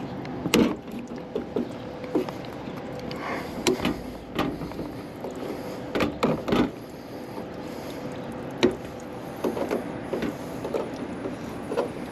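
Scattered knocks, clicks and scrapes as a stuck access plate on a rooftop air-conditioning unit is worked loose by hand, over a faint steady hum.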